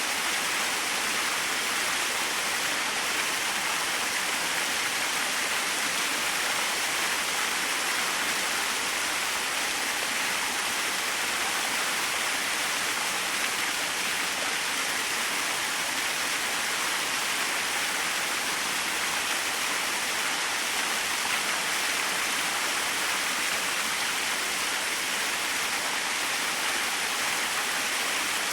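Small waterfall: a steady, even rush of falling water with no breaks or changes.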